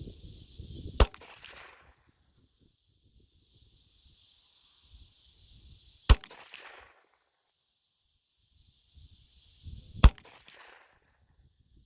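Three single shots from a Glock 19 Gen 5 9mm pistol, spaced about four to five seconds apart. Each shot is followed by a short echo that dies away. Low wind rumble on the microphone is heard between the shots.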